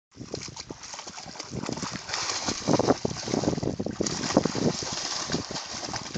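Creek water splashing and sloshing irregularly as a dog swims and paddles.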